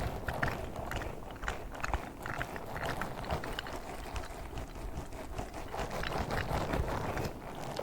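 A pink star ASMR trigger being handled fast: a dense, irregular run of quick taps, clicks and crackles.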